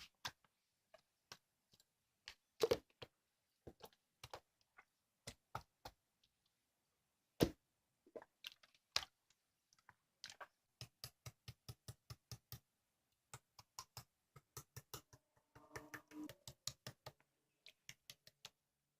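Slime being pressed and squeezed by hand, making a string of sharp little clicks and pops. The pops are scattered at first, then settle into a quick, even run of about three or four a second, with a denser squelchy patch a few seconds before the end.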